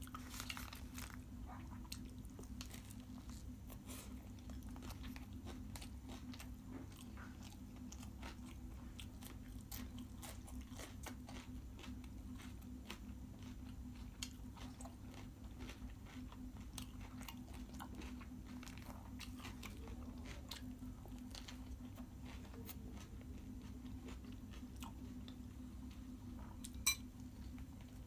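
A person chewing and biting food close to the microphone: soft, continuous eating noises with many small mouth clicks and a sharp click near the end, over a steady low hum.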